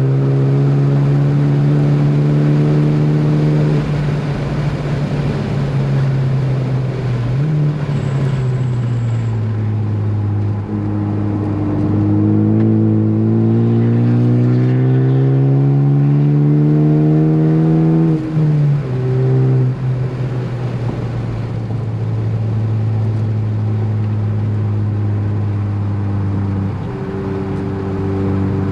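Ford Focus ST engine running hard on a racetrack. The pitch holds, sags, then climbs steadily for about six seconds as the car accelerates, before dropping sharply at a gear change or lift, after which it settles lower and steady.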